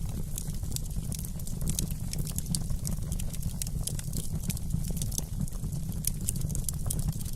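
Wood fire in a fireplace crackling: a steady low rumble of the flames under many small, irregular sharp crackles and pops.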